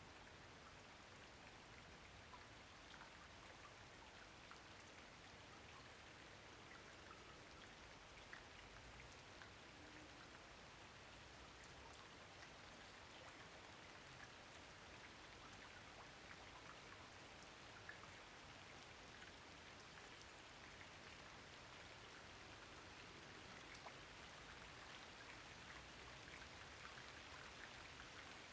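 Rain falling steadily and softly, a dense patter of small drops with single drop ticks standing out here and there.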